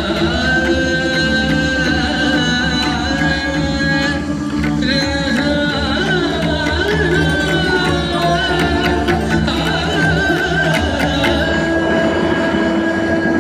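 Indian classical singing: a voice holds long notes and bends them, over a steady drone.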